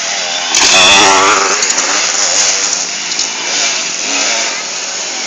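Motocross bike engines revving, their pitch wavering up and down, with one bike growing much louder about half a second in.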